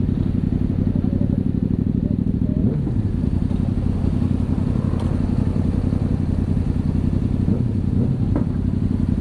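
Yamaha MT-07's parallel-twin engine running steadily.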